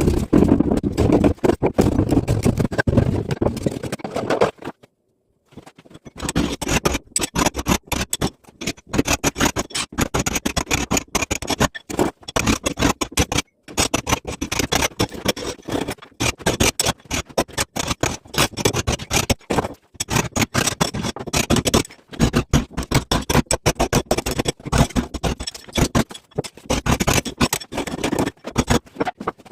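Rapid, uneven hand-tool strikes and scraping on masonry, as a recess is chipped out of a wall for an electrical box. This follows a low rumbling noise and a short silence about five seconds in.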